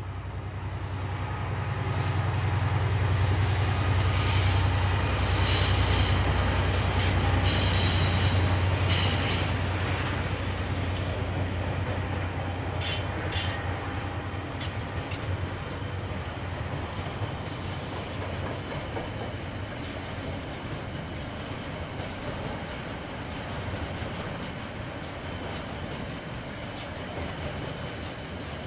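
A KiwiRail diesel-hauled train passing: a deep engine drone builds over the first couple of seconds and holds until about nine seconds in, then a long line of wagons rolls by. Short, high wheel squeals come through during the loud part and again around the middle.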